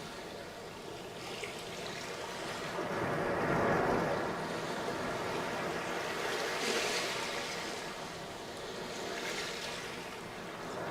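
Sea waves breaking and washing up a sandy beach, the surf swelling and easing in slow surges, louder about four seconds in and again near seven seconds.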